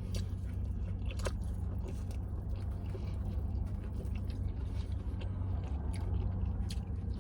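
Close-miked chewing with small wet mouth clicks from someone eating, over a steady low hum.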